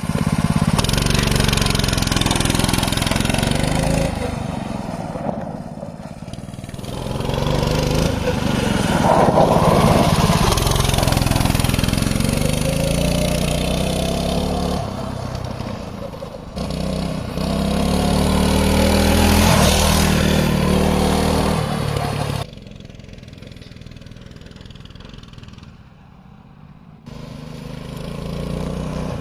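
Mini bike engine revving and running under load as it is ridden, its pitch rising and falling in repeated surges. About three quarters of the way through it drops much quieter, then comes back up near the end.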